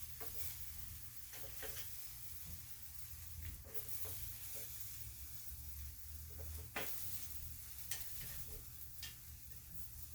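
Quail sizzling on a charcoal grill, with scattered sharp pops and crackles as the fat drips onto the coals.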